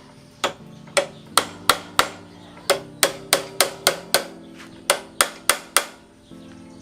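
Hammer striking metal: about sixteen sharp, ringing blows at an uneven pace, some in quick runs of three or four, as a part is knocked into line. Soft background music plays underneath.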